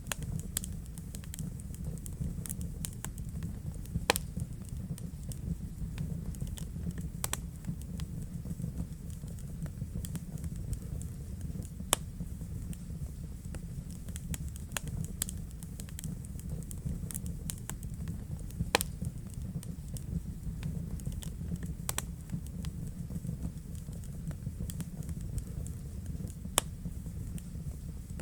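Fire burning in a fireplace: a steady low rumble with frequent sharp crackles and pops. A few louder snaps come about four, twelve and nineteen seconds in.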